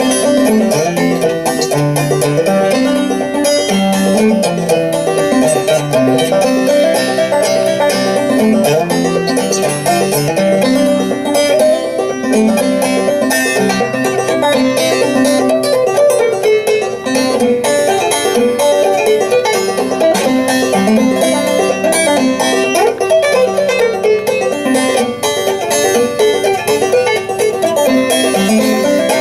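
Clawhammer banjo played solo: an old-time tune picked steadily, with a quick, even stream of notes.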